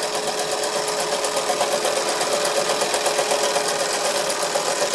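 Wilesco D141 model steam engine running steadily with a rapid, even beat.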